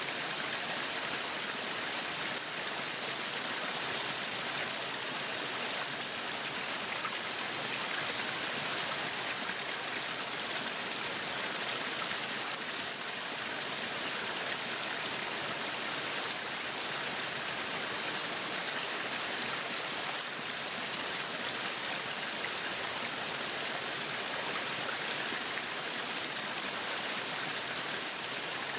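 Meat sizzling on a yakiniku grill: a steady hiss with fine crackling throughout.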